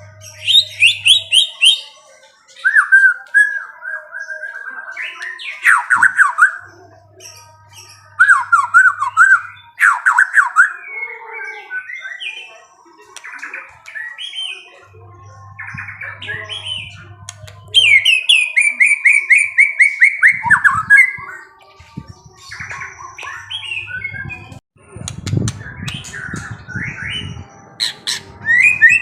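A songbird singing loud, varied chirping phrases in bursts a few seconds apart, some of them fast descending trills. A low hum comes and goes beneath the song.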